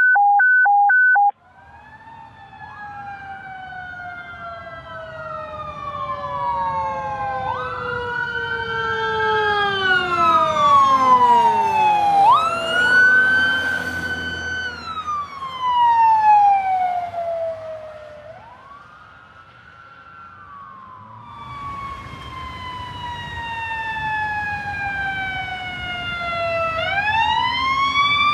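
Several fire-apparatus sirens wailing and overlapping, each sliding up and down in pitch, over the low rumble of truck engines. They grow loud as the trucks come by, fade away, then another siren builds again near the end. A few short two-tone beeps open it.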